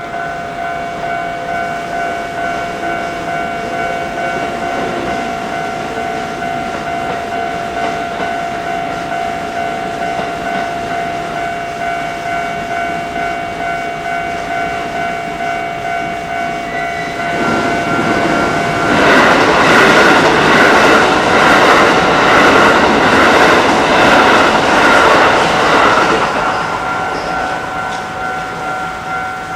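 Level crossing warning bells ringing steadily. About two-thirds of the way through, a Kintetsu train passes and its wheels clatter on the rails, louder than the bells for about eight seconds before fading back under them.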